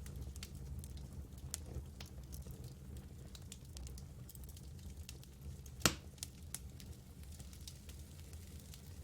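Campfire crackling: scattered small wood snaps over a steady low rumble, with one sharper, louder pop about six seconds in.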